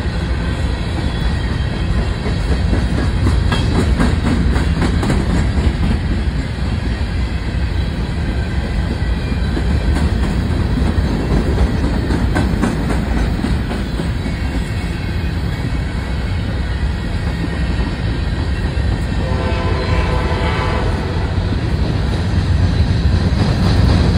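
Freight train of covered hopper cars rolling past close by: a steady heavy rumble with the clicking of wheels over the rail joints. About twenty seconds in, a horn sounds briefly for about two seconds.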